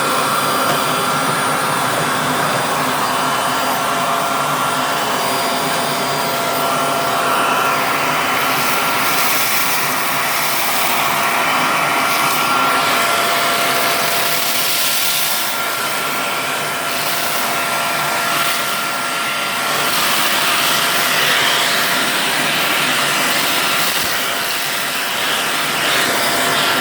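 Bagless vacuum cleaner running continuously with a steady motor whine. From about eight seconds in, its high-pitched rush of air surges and eases again and again as it is worked over debris.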